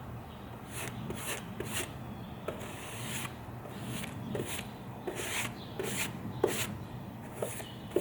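Hand strokes rubbing or scraping across wood, a little over one a second and unevenly spaced, each a short dry scrape.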